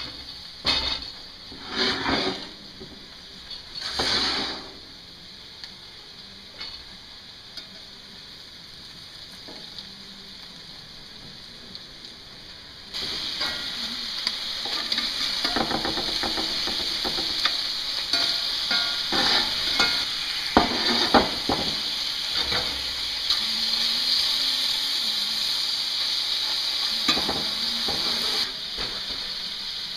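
Pan handling clanks a few times at the start. About halfway through, loud steady sizzling begins: cubed potatoes frying in a cast iron skillet, with the repeated scrape of a spatula stirring and turning them.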